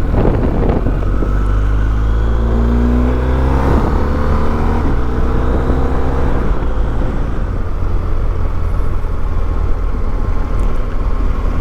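BMW R1250GS boxer-twin engine pulling away and accelerating, rising in pitch for a few seconds, then settling into a steady run under a continuous low rumble.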